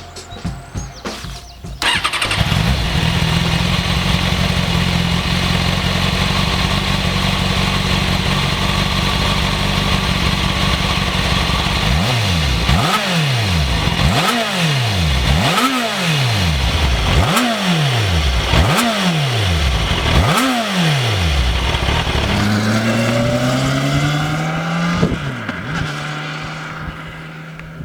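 Stock 2005 Kawasaki Ninja ZX-6R 636 inline-four engine starting about two seconds in, then idling steadily. It is then revved in six quick blips, each rising and falling in pitch. Near the end it climbs in pitch, drops once as if shifting gear, and fades away.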